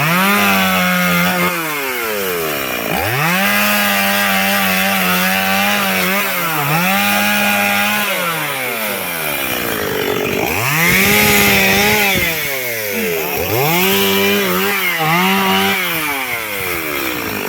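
Two-stroke chainsaw cutting firewood logs, opened to full throttle and dropping back toward idle about five times, with a longer spell near idle about halfway through.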